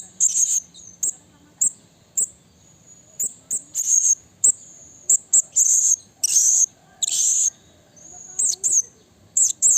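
Blue-crowned hanging parrot (serindit) calling: short, sharp, very high-pitched calls in a quick irregular series, with two longer, harsher calls a little past the middle.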